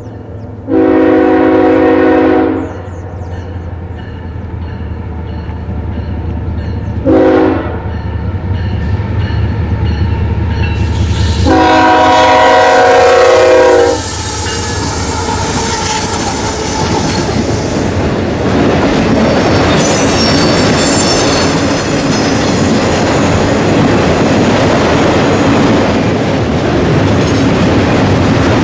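CSX freight train led by an ES44AC and an AC44CW diesel locomotive sounding its horn as it approaches: a long blast, a short one and another long one, over the building rumble of the diesel engines. About fourteen seconds in, the locomotives and autorack cars pass close by with a steady rumble of engines and wheels and the clatter of wheels over rail joints.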